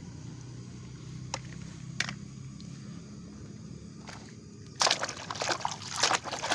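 A few light clicks of a plastic toy, then, about five seconds in, loud water splashing and sloshing as a muddy toy excavator is scrubbed and rinsed in a tub of water, over a low steady hum.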